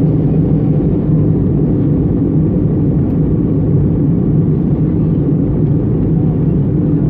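Steady cabin noise inside an Airbus A320 in flight: an even, low rumble of engines and airflow.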